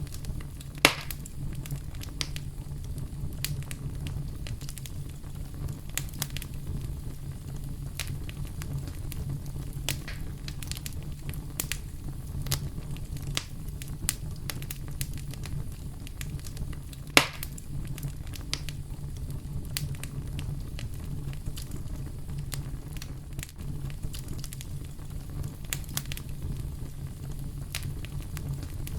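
Campfire crackling, with many small sharp snaps and two louder pops, one about a second in and one a little past the middle, over a steady low brown-noise rumble.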